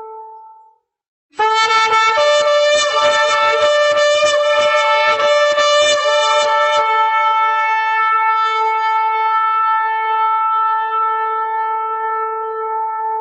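Shofar (ram's-horn) blowing: a held blast fades out, and after a short pause a new blast starts, breaking into a rapid run of short pulsing notes, about three a second, for roughly five seconds, before settling into a long, steady held note.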